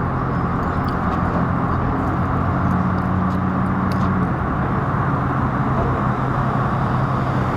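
A vehicle engine running steadily at idle, a constant low hum over a wash of road noise, with a few faint clicks.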